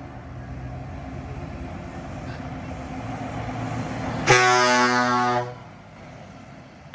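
A truck's engine running and growing louder as it approaches, then a truck air horn sounds one loud blast of a little over a second, about four seconds in.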